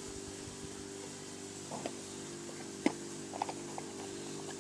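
Steady electrical hum of a household appliance running, with a few light clicks and taps from handling the toy packaging, the sharpest about three seconds in.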